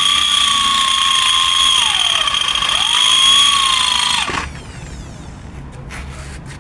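Electric angle grinder grinding off the rivet heads of a lower control arm ball joint: its motor whine sags in pitch twice as the disc bites into the metal and climbs back. About four seconds in it is switched off and winds down.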